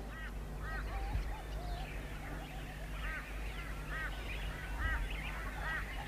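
Birds calling: a scatter of short, repeated notes, some in quick pairs, over a low steady hum.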